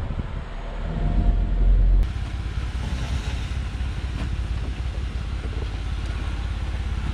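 Jeep engine running steadily as it drives along a dirt trail, a low drone. The drone is louder at first and changes abruptly about two seconds in.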